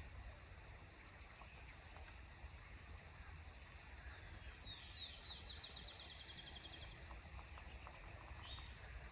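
Faint songbird song: about halfway through, a quick slurred note runs into a rapid trill of repeated high notes lasting about two seconds, and one short note comes near the end, over a low steady rumble.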